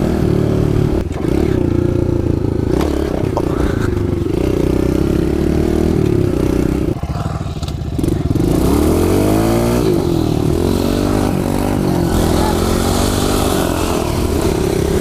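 Kawasaki KLX110 pit bike's small single-cylinder four-stroke engine running under way. About seven seconds in it drops briefly off the throttle, then revs up twice with a rising pitch.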